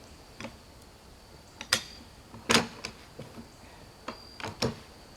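A handful of separate sharp knocks and clicks, about seven in five seconds, the loudest about two and a half seconds in: tools and blocks knocking as a log is worked into place against the head blocks of an antique Frick sawmill carriage.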